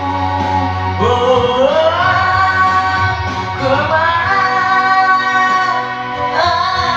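A pop ballad backing track with a voice singing long held notes that slide up into each phrase, about a second in, again midway and near the end.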